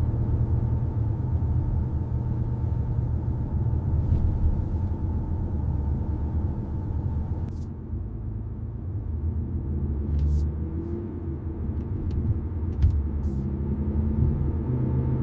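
A vehicle engine running with a steady low rumble, its pitch shifting slightly a couple of times, with a few faint clicks.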